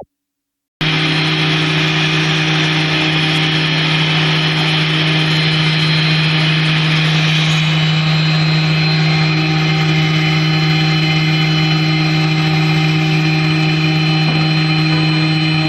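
CNC router running steadily: a loud, even machine sound with a constant low hum and a thin high whine. It starts abruptly under a second in.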